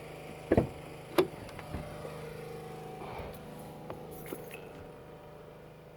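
Two short sharp knocks about half a second apart, then a few faint ticks over a faint steady hum.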